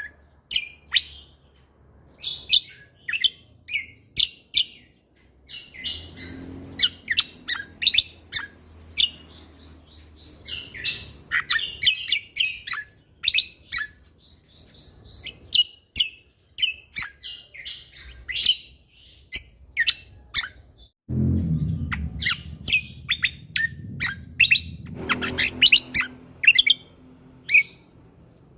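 Cucak kombo (kecial kombo) songbird singing non-stop in fast runs of sharp chirps and trills, with short pauses between bursts. A low rumble sits under the song for a few seconds near the end.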